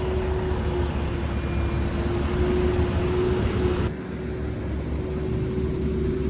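Motor vehicle running with a steady low rumble and a constant hum. The upper hiss drops off abruptly about four seconds in.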